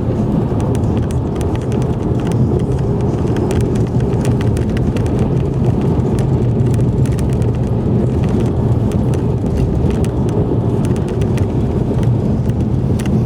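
A car driving: a steady low rumble of engine and tyre noise with many small clicks and rattles scattered through it.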